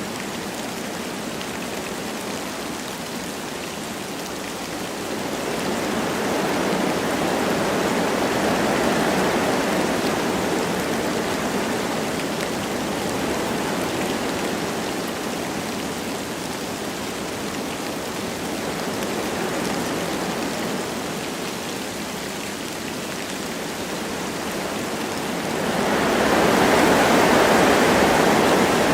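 Wind blowing through forest trees with light rain falling: a steady rushing that swells in gusts, once about five seconds in and again, loudest, near the end.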